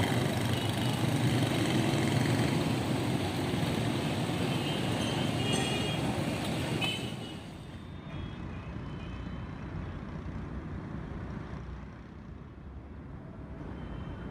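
Motor vehicle traffic running in a street. It drops to a quieter, duller background about seven seconds in.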